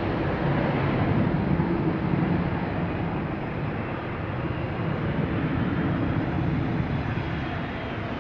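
Jet airliner landing, its engine and rushing air noise slowly fading as it moves away.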